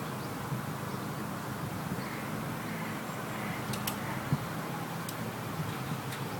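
Steady outdoor background noise with a low hum, a few faint clicks, and one short thump a little past four seconds in.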